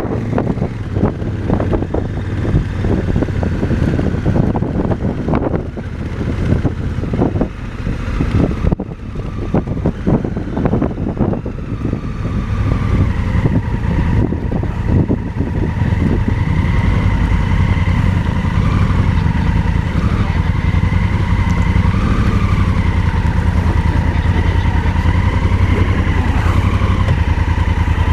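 Motorcycle engine running while riding a rough dirt road, with knocks and rattles from the bumpy surface over the first half; from about twelve seconds in the engine settles into a steady, even hum.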